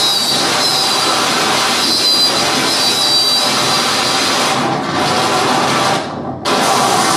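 Live harsh noise music from analog electronics: a loud, dense wall of noise. A faint high whistling tone sits over it for the first few seconds, and about six seconds in the upper noise cuts out for half a second before coming back.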